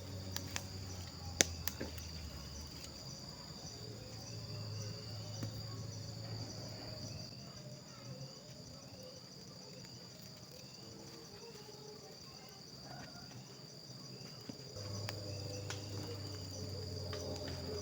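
Steady chorus of forest insects, a continuous high-pitched trill with a faster pulsing layer just above it. A few sharp cracks sound in the first two seconds, the loudest about a second and a half in.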